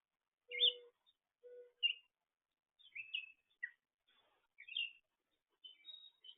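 Songbirds chirping and twittering in short, high calls with gaps between them. Two brief, lower-pitched calls come in the first two seconds.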